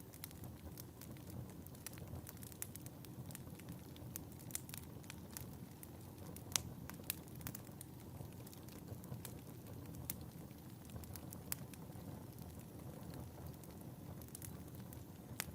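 Wood fire burning in a fireplace: a steady low rumble of flame with frequent sharp crackles and pops at irregular intervals, one louder pop about six and a half seconds in.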